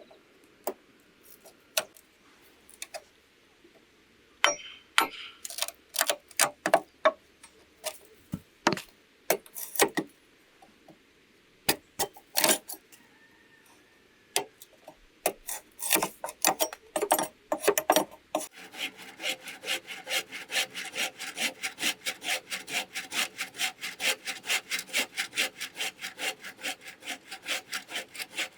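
Scattered knocks and taps on wood or bamboo, then about two-thirds of the way in a hand saw starts cutting bamboo with quick, steady back-and-forth strokes.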